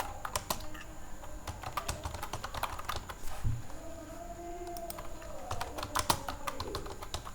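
Typing on a computer keyboard: irregular keystrokes, several a second, with short pauses between bursts.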